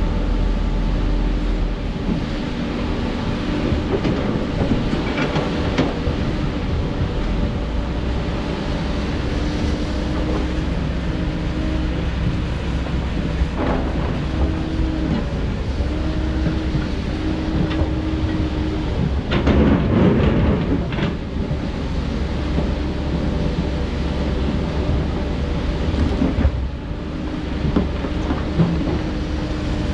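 Heavy diesel earthmoving machinery, an excavator at work, running steadily with a whine that steps up and down as the load changes. Scattered clanks and rattles of rock and metal break in, with the loudest rattle about two-thirds of the way through.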